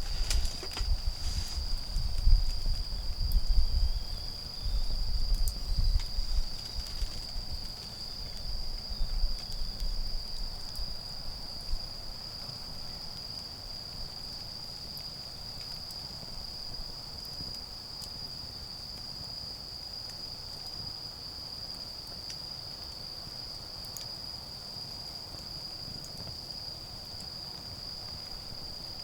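Autumn insects singing a continuous, steady high-pitched trill. For the first dozen seconds, loud low rustling and thumping handling noises sit under it, and then fade out. A few faint clicks of a crackling wood fire follow.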